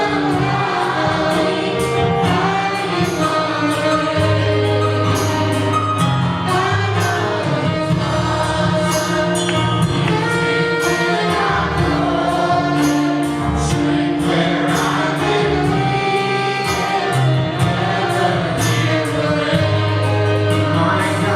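Church worship band and singers performing a gospel-style worship song: voices holding long notes over a bass line, with regular percussion hits keeping the beat.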